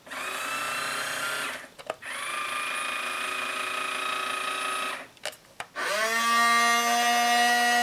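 Small electric motor and gearbox of a Hobby Engine 1:12 scale RC excavator whining in three separate runs as the boom is driven out and back. Each run rises quickly in pitch as it starts. The third, starting near the end, is lower-pitched and louder than the first two.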